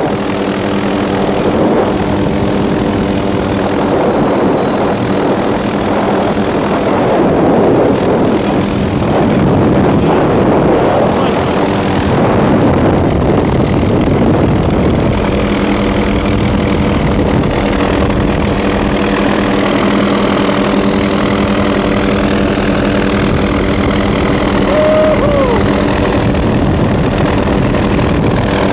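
An engine running steadily, a constant drone that does not change in pitch or loudness.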